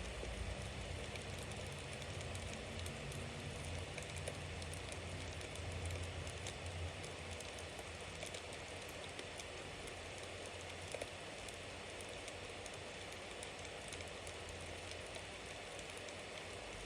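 Wood bonfire burning: a steady hiss of flame with frequent small crackles and pops, and one louder pop near the middle. A low rumble under the fire fades out about halfway through.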